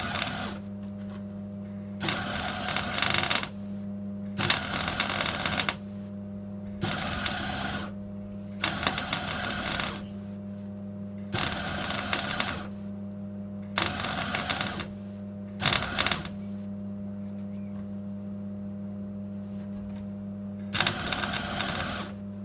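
MIG welder laying short crackling runs, stitch-welding a heel board repair panel on a classic Mini's floor. There are about eight bursts of one to two seconds each, a longer pause near the end, and a steady electrical hum throughout.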